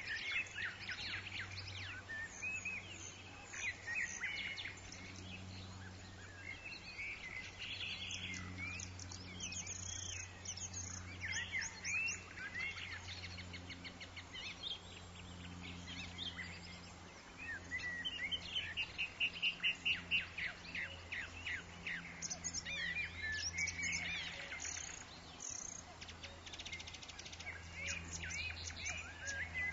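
Forest bird chorus: many birds chirping, whistling and trilling over one another, with a steady low hum underneath. Past the middle, one bird gives a fast run of evenly repeated loud notes.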